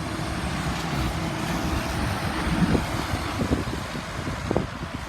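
A truck driving past: engine hum and tyre noise build to a peak about halfway through, then ease off as it goes by.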